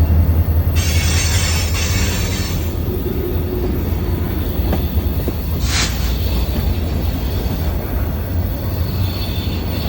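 CSX manifest freight train rolling past with a steady low rumble. Brief high-pitched wheel squeals come in about a second in and again near the six-second mark.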